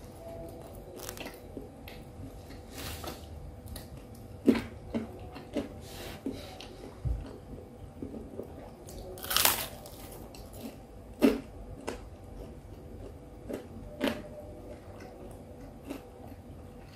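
A person biting and chewing a pisang goreng (Indonesian fried banana fritter) close to the microphone: irregular soft wet mouth smacks and light crunches, the loudest a little past the middle.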